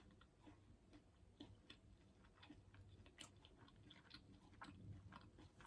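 Faint close-up chewing of a breaded meatless popcorn chicken nugget, heard as irregular soft clicks of mouth and food.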